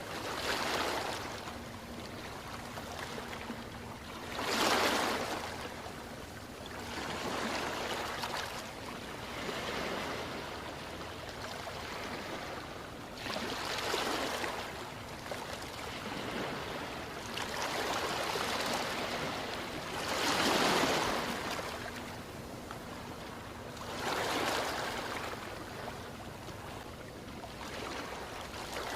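Ocean waves washing in, a steady hiss of surf that swells and fades every few seconds, loudest about five seconds and about twenty-one seconds in.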